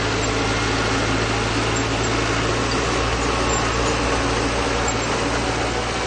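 Crawler bulldozer's diesel engine running steadily under load, with an even low hum and no revving.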